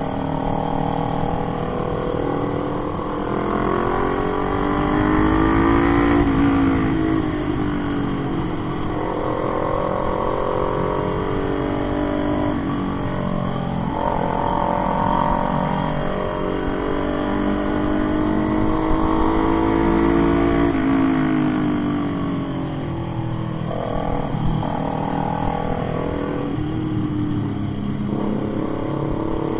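Motorcycle engine under way, its pitch climbing as it accelerates and dropping back at each gear change, several times over, with wind rush underneath.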